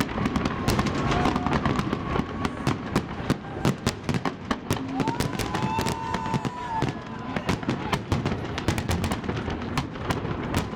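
Fireworks salute going off: a rapid, dense run of sharp bangs and crackles over a steady background noise.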